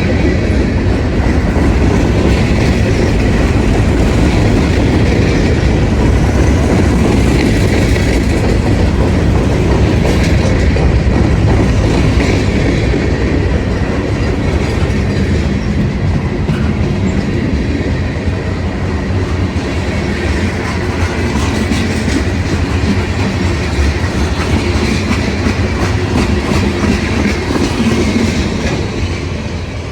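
A train passing close by, its cars rolling over the rails with wheel clatter at the rail joints. It is a steady loud rumble that eases slightly near the end.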